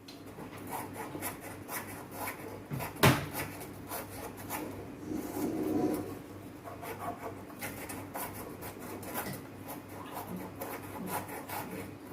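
Hand work with tools: irregular scraping and rubbing with many small clicks, one sharp knock about three seconds in, over a steady low hum.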